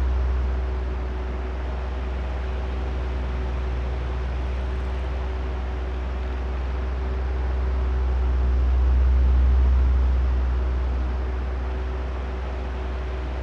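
Oscillating electric fan running: a steady motor drone with a low hum and airy noise. It slowly fades and swells as the head turns away and back, loudest about nine seconds in.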